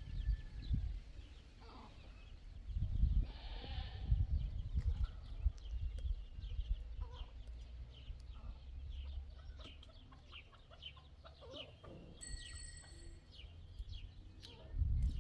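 Goats bleating among livestock, with many short high chirps scattered throughout and a few low rumbles.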